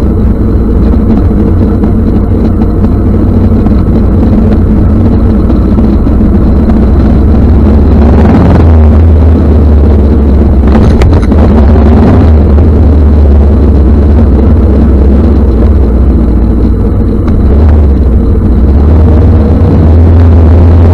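Kawasaki ER-5 parallel-twin motorcycle engine running at steady low revs, heard loud and close as a deep drone. A few sharp knocks come about eleven to twelve seconds in.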